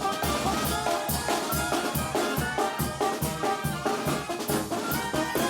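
Live brass band (banda) playing: brass melody over a steady drum beat.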